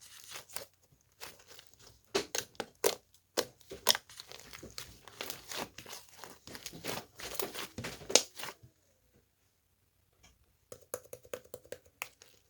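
Irregular crinkling and crackling, dense and uneven for most of the stretch, then stopping; after a pause, a short run of lighter clicks near the end.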